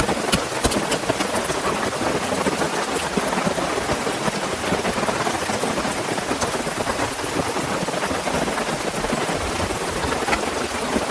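Heavy rain falling steadily, a dense even hiss, with a few sharper drop taps near the start.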